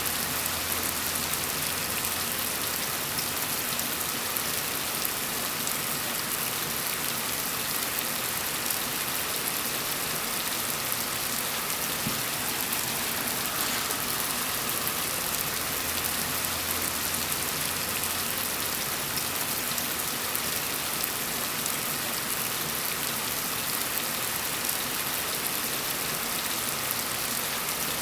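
Steady rain falling on a surface, an even hiss of many drops without pause.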